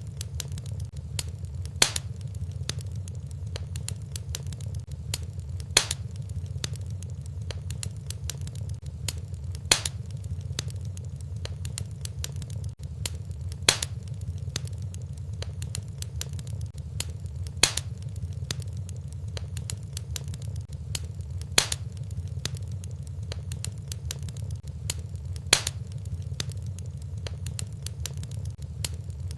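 Wood fire crackling in a fireplace, with many small crackles over a steady low rumble and a sharper pop about every four seconds.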